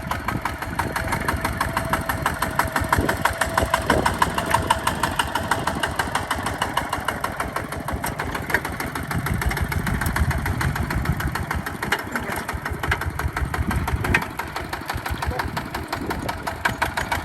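Diesel engine of a Hinota HG Gold 155 DI tractor running steadily with a rapid, even putter.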